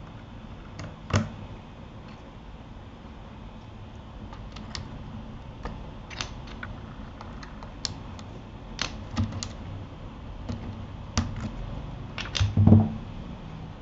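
Keys on a Keychron K8 mechanical keyboard being pressed, sparse and irregular single clicks rather than continuous typing, with a heavier thump near the end.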